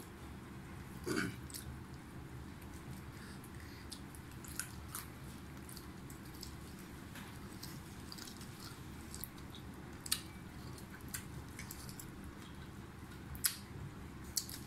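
People chewing and eating rice and curry by hand, with a few scattered short mouth clicks and smacks over a low steady background hum.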